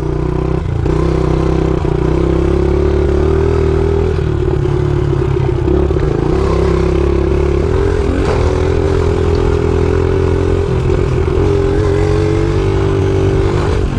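Dirt bike engine running at fairly steady revs while being ridden off-road, with brief wavers in pitch about eight and eleven seconds in, and some clatter.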